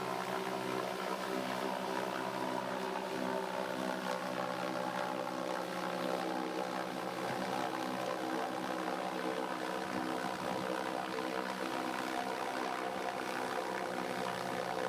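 Helicopter hovering: a steady, unchanging drone of rotor and engine.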